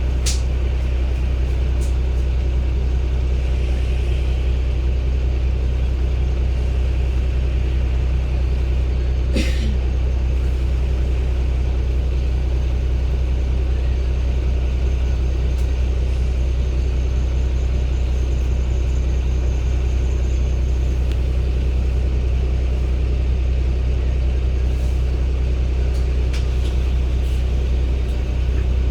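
Cummins ISB Euro 6 diesel engine of a 2016 Daewoo BS090 city bus running with a steady low drone at an unchanging pitch, the air conditioning off. There is a sharp click just after the start and another about nine and a half seconds in.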